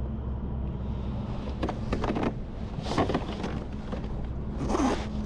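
A handful of short scraping and rustling handling noises, several of them spread over a few seconds. They sit over a steady low hum.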